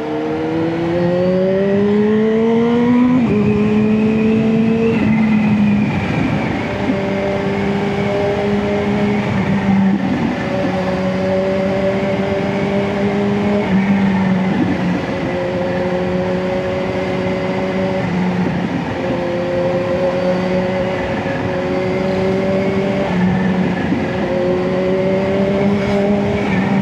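Kawasaki Z H2's supercharged inline-four motorcycle engine pulling under throttle. The revs climb over the first few seconds, then the pitch drops at each gear change, repeating every few seconds.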